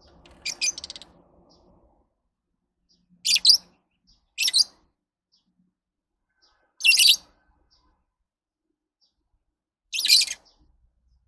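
Lovebirds chirping in five short, high-pitched bursts. The first, just after the start, is a quick run of chirps; the others are single calls a second to three seconds apart.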